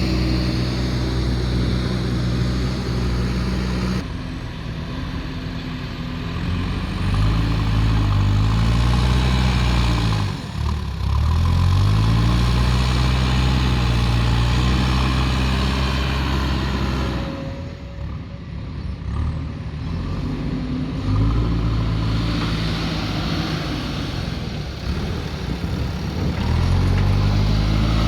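JCB backhoe loader's diesel engine running while it works, its revs dropping and picking up again several times as the load changes.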